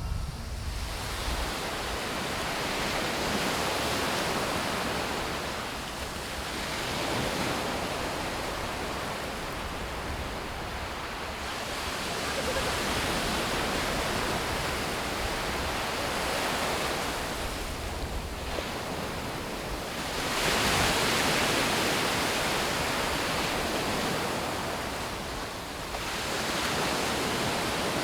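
Sea waves breaking and washing up a sandy beach, the surf noise swelling and falling back every few seconds, loudest about two-thirds of the way through.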